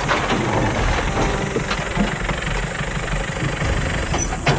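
Car and pickup truck engines running as the vehicles pull up and idle, with a sharp knock near the end.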